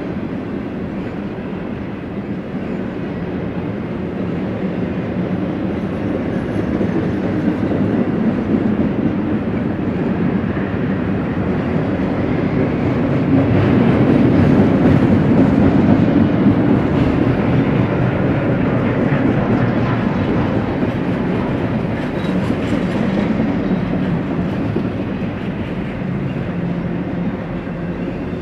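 BNSF freight train rolling past, its cars' wheels running over the rails in a steady noise that grows louder toward the middle and eases off near the end.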